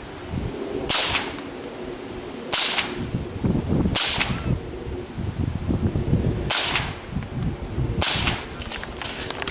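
Five .22 LR rifle shots, sharp cracks spaced unevenly about one to two and a half seconds apart, fired during a timed run-and-gun stage.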